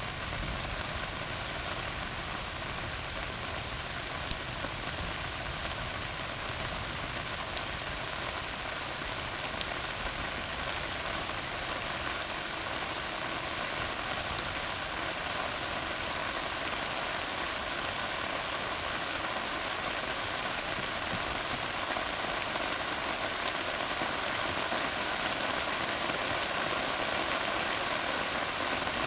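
Steady rain falling on a tar road surface, an even patter with scattered sharper drop ticks, growing slightly louder toward the end.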